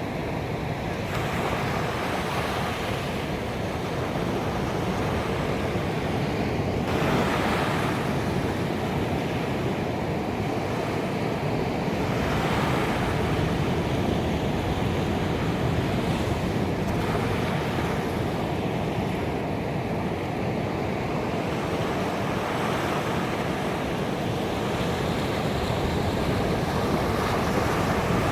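Ocean waves breaking on a beach, a continuous wash of surf that swells several times as larger waves break, about every five seconds.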